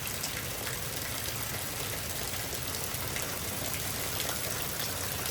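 Torrential rain pouring down steadily, with water gushing and splashing and scattered drips ticking.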